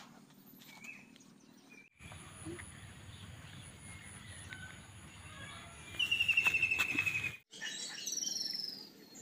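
Birds calling outdoors over a steady background hiss. The loudest call, about six seconds in, is a rapid trill falling slightly in pitch for over a second. Shorter high calls that fall in pitch follow near the end.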